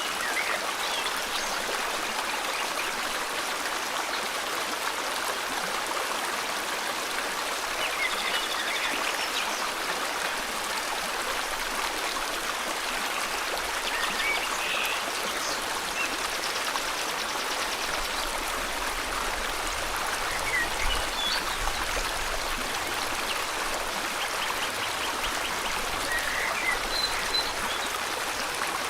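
A river's flowing water rushing steadily, with short, faint bird chirps and trills scattered through. A brief low rumble comes about two-thirds of the way through.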